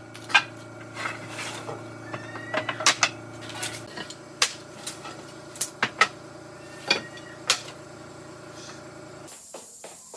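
Irregular sharp knocks and clinks of work on wood and tools, about a dozen, over a steady low hum that cuts off suddenly near the end.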